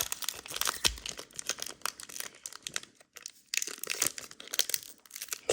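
Foil wrapper of a Pokémon booster pack crinkling and tearing as it is opened by hand, in quick irregular crackles with a short lull about three seconds in.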